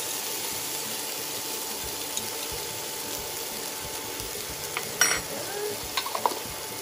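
Sliced onions and mushrooms sizzling steadily in olive oil in a pan. There is one sharp clack about five seconds in and a few lighter clinks after it.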